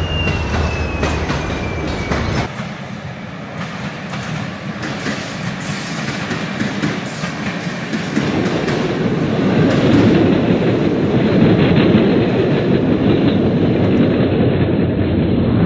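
LEGO train running on plastic track, its wheels clicking quickly over the track joints with a motor whir. A thin tone falls in pitch in the first two seconds, and the running gets louder and denser about halfway through.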